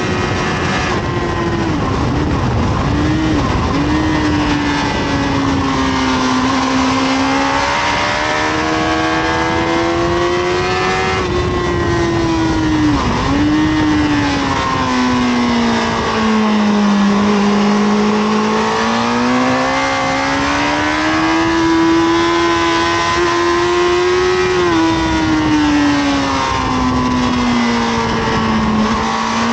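Honda CBR1000RR SC57 inline-four engine running hard under wind rush, heard from on board the bike. Its pitch climbs and falls slowly several times, with a few quick dips in between.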